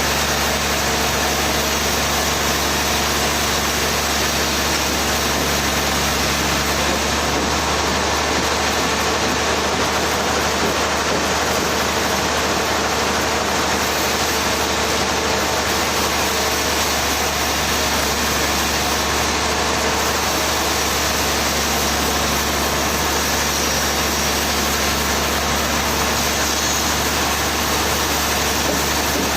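Sawmill machinery running steadily: a constant engine drone under a dense, even wash of noise, with no rise or fall throughout.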